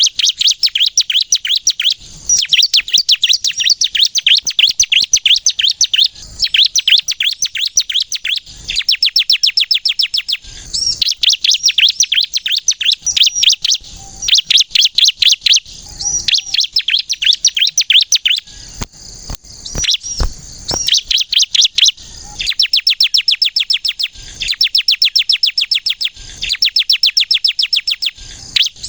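Bar-winged prinia (ciblek kristal) singing: fast runs of high, repeated notes in phrases of about two seconds, separated by short pauses.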